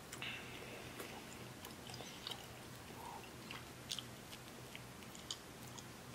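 A person chewing a mouthful of pizza close to the microphone: scattered soft, wet mouth clicks, with a couple of sharper ones about four and five seconds in.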